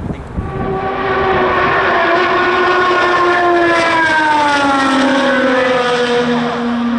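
IndyCar's twin-turbo V6 passing at speed: the engine note swells in within the first second, holds loud, then slides down in pitch as the car goes by and settles on a lower note.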